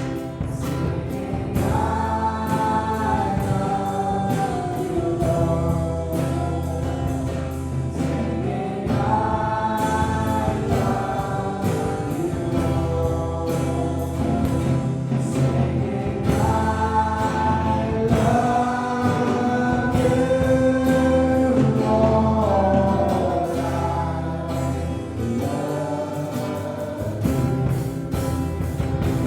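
Gospel music: a choir singing long melodic phrases over instrumental backing with a steady bass and drum beat.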